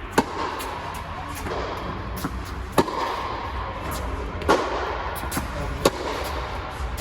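Tennis ball struck with racquet strings in a rally: four sharp pops of ball on strings, about one and a half to two and a half seconds apart, with fainter ball bounces between them, over a steady low rumble.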